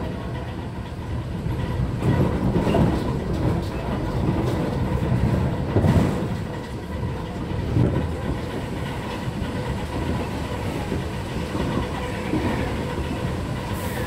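Running noise inside an MTR Mid-Life Refurbished (Metro-Cammell) electric train at speed: a steady low rumble of wheels on rail with clickety-clack over the rail joints and a faint steady hum. A few louder clunks come about two, six and eight seconds in.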